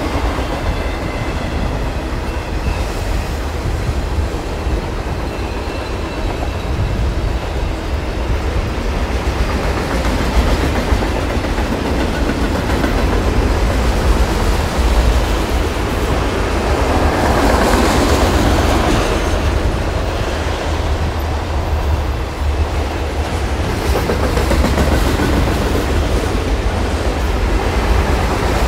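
Freight train of autorack cars rolling past, a steady rumble of steel wheels on the rails that swells for a couple of seconds about two-thirds of the way through.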